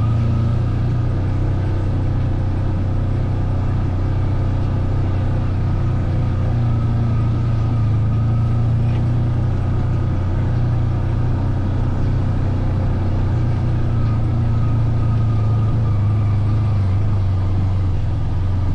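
Vehicle engine running steadily while riding, heard from on board as a constant low drone that barely changes.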